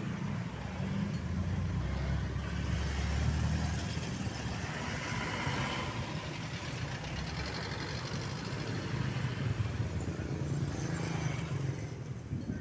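Heavy engines running with a steady low rumble, loudest about three seconds in.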